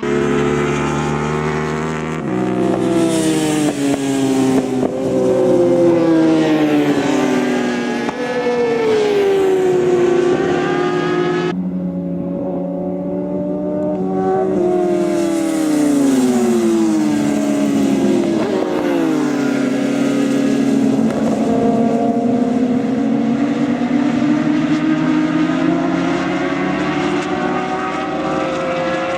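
Racing motorcycle engines at high revs, their pitch rising and falling again and again as the bikes accelerate, shift and brake, with more than one engine note heard at once. The sound changes abruptly about 2 seconds and about 12 seconds in.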